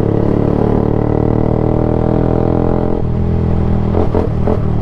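Yamaha YZF-R sport bike engine running loud and open through an exhaust with its end section removed, no baffle and no catalytic converter, so it is louder than stock. It holds a steady note that changes slightly about two thirds of the way through.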